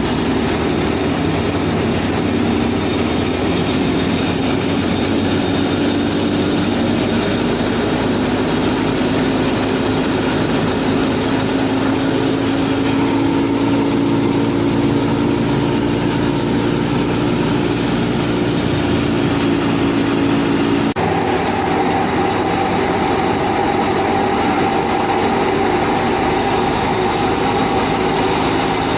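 Motor of a DIY mini tractor running steadily with a humming drone; about three-quarters of the way through, the drone changes suddenly to a higher tone.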